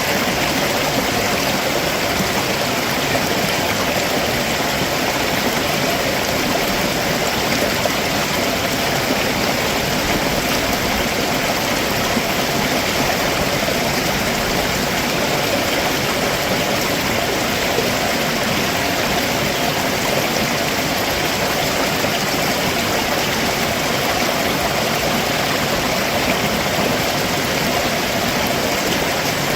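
Water rushing over rocks in a stream just below a waterfall, a steady, even noise with no changes.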